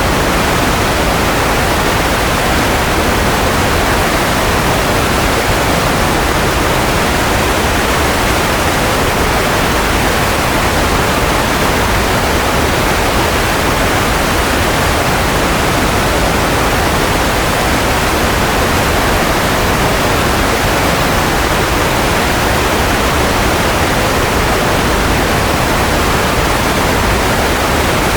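Steady white noise for lulling a baby to sleep: an even, unchanging hiss, strongest in the middle range.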